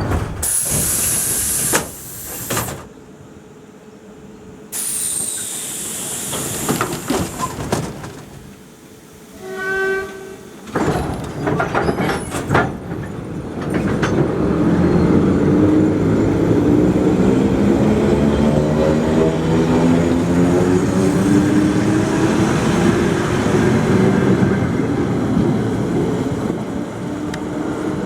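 Train sounds: a short horn blast about ten seconds in, then a loud drive hum from an accelerating train, its pitch climbing steadily.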